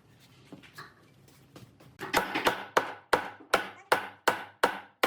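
Repeated sharp strikes on wood, faint taps at first, then about two seconds in a steady run of loud blows, about three a second, each with a short ringing tail.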